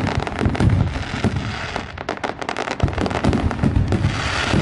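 Fireworks going off: rapid crackling pops over repeated low booms.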